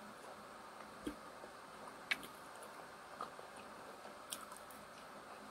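Quiet eating sounds: mouth clicks and smacks while chewing food, about one sharp tick a second with the loudest about two seconds in, over faint room hiss.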